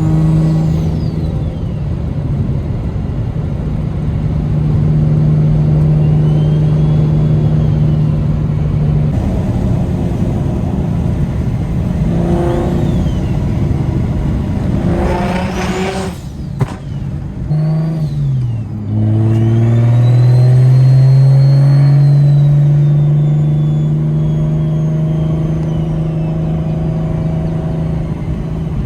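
BMW N54 inline-six with a DocRace single-turbo kit (T51R Mod turbo) and straight-pipe exhaust, heard inside the cabin with the windows up: a steady engine note under way, with the turbo whistling up and down several times. About two-thirds of the way through the engine note drops sharply as the throttle is lifted, then climbs steadily again as it pulls back up.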